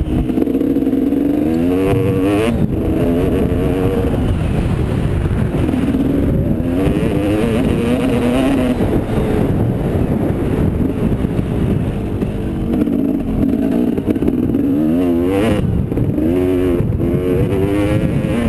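Motocross motorcycle engines revving up and down over and over, their pitch climbing and dropping as the throttle opens and closes, over a steady low rumble.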